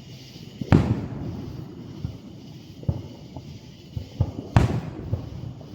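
Aerial fireworks bursting overhead: two loud booms, about a second in and near the end, with smaller pops between them.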